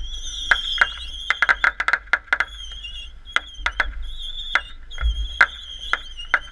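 Consumer fireworks going off: an irregular string of sharp pops and cracks, several a second at times, over a steady high, wavering whistle. A low boom comes about five seconds in.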